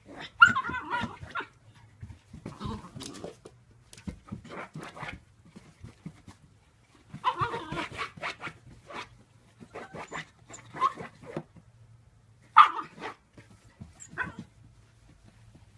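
A dog giving a series of short, high whining yelps and barks, spaced seconds apart, with scattered clicks and knocks between them. The loudest calls come right at the start and about three-quarters of the way through.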